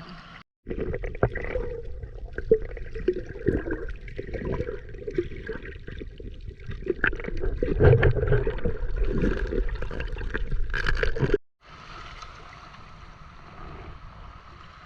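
Close water splashing and gurgling with small knocks, starting abruptly about half a second in and cutting off suddenly after about eleven seconds.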